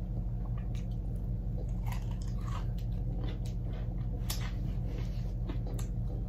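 Close-miked biting and chewing of crispy fried chicken wings, with scattered crunchy clicks, over a steady low hum.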